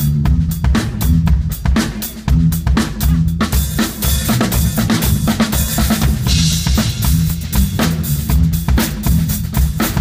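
Drum kit played hard at a fast tempo, dense kick and snare hits, with cymbals washing in from about three and a half seconds in.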